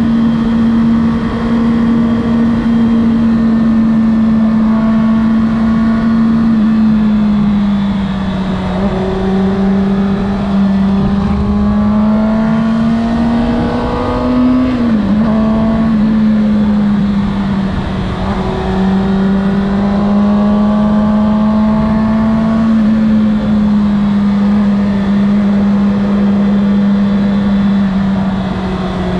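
Kawasaki Ninja ZX6R inline-four engine running on the move, holding a steady note, with revs climbing in short stepped rises twice: once around a third of the way in and again just past halfway.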